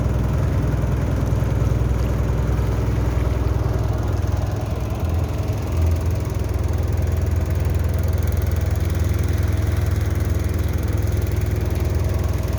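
Boat engine running steadily, with a brief dip and change in its note about five seconds in.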